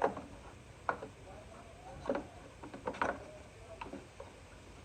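Parts of a Stihl BR600 backpack blower being handled and fitted together by hand: several light clicks and knocks, about five in all, spread unevenly.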